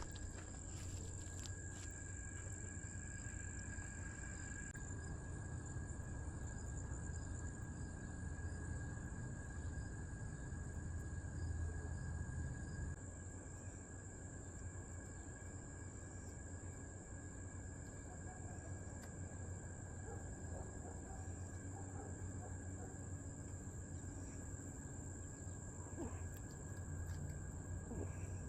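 Crickets singing in a steady insect chorus of continuous high trills, over a low rumble.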